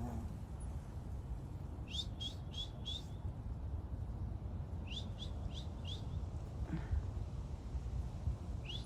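A tufted titmouse singing two phrases of four quick, clear down-slurred whistles, a few seconds apart, over a steady low outdoor rumble.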